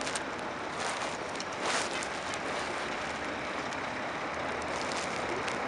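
Steady noise of a freight train running in the distance through a snowstorm, with a brief swell about two seconds in.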